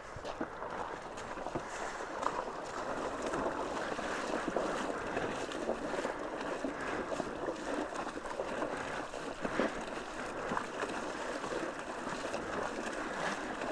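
River water sloshing and splashing steadily as people wade and push a motorcycle through the current, with small irregular splashes throughout.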